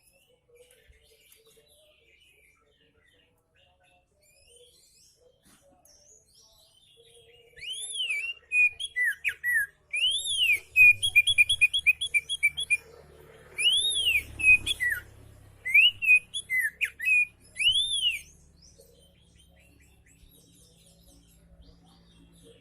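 Oriental magpie-robin singing: clear, arching whistled notes mixed with quick runs of repeated notes, starting about eight seconds in and lasting about ten seconds before stopping.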